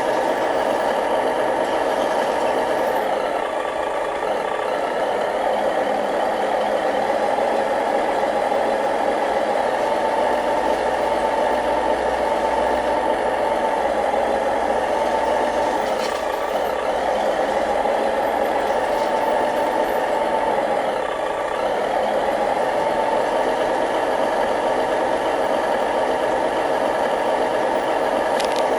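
Remote-control model bulldozer and dump trucks running, a steady motor and gearbox noise that holds throughout with only brief slight dips.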